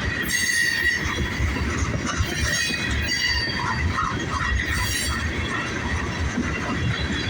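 Freight train of tank cars rolling slowly past, its steel wheels running on the rails with a low rumble and a steady high squeal that flares up louder several times.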